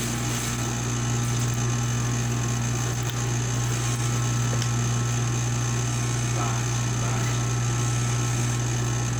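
A steady electric motor hum, low and unchanging throughout.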